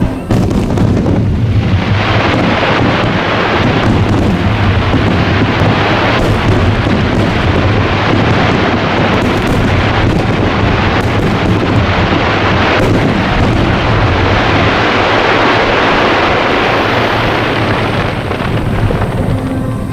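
A dense barrage of fireworks: a continuous run of booms and crackling shells over a steady low rumble. It builds up about a second and a half in and eases off near the end.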